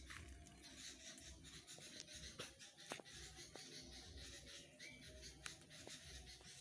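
Near silence: faint outdoor ambience with a few soft clicks and rubs, and a short, faint rising bird chirp twice, once at the start and again about five seconds in.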